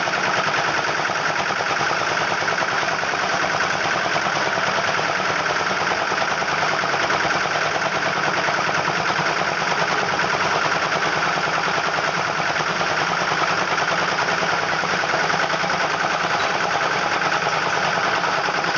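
Lombardini 3LD510 single-cylinder air-cooled diesel engine running steadily at an even speed, its rapid firing beat clattering without change.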